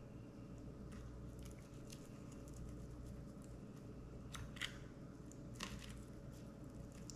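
Knife cutting and scraping through a spotted seatrout while filleting it along the rib bones, faint crisp crunches and clicks, two slightly louder ones about four and a half and five and a half seconds in.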